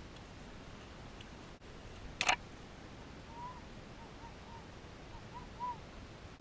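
A single sharp click about two seconds in, then a run of faint, short, arching chirps of a small bird calling.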